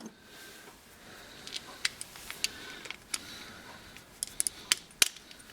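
Scattered light clicks and taps of small metal parts and tools being handled on a small lathe's compound slide, with the sharpest tap about five seconds in.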